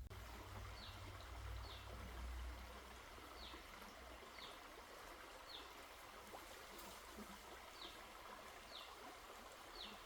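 Faint outdoor ambience: a small bird gives a short, high, falling chirp about nine times, roughly once a second, over a steady hiss.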